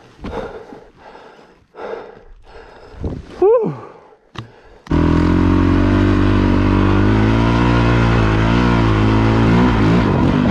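Scattered crunching noises and one short, loud sound that rises and falls in pitch. About five seconds in, the sound cuts abruptly to a Honda CRF450 dual-sport motorcycle's single-cylinder engine, heard from on the bike. The engine runs steadily under load as the bike climbs a rocky hill.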